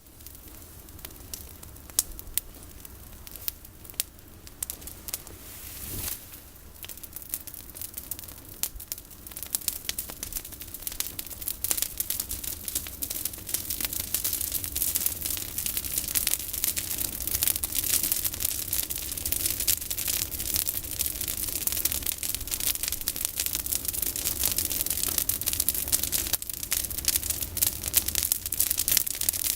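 Bonfire of pruned olive branches burning, with dense crackling and hissing that grows thicker and louder about ten seconds in.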